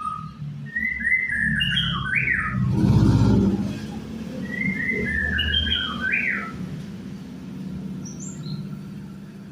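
A songbird singing the same short whistled phrase twice, a few seconds apart, over a low steady hum. A brief low rumble about three seconds in is the loudest moment.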